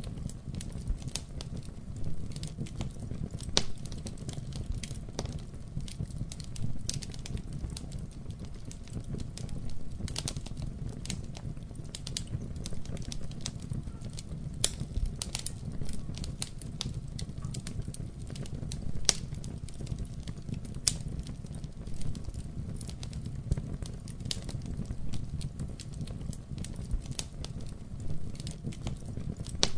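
Wood fire burning in a fireplace: a steady low rumble of the flames with frequent irregular crackles and pops, some sharper and louder than others.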